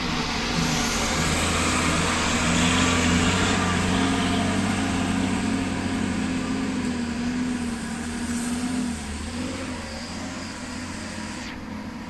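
A heavy road vehicle's engine running under load as it climbs a muddy road, over a steady hiss of tyres and road noise. The engine is loudest a few seconds in and fades away after about nine seconds.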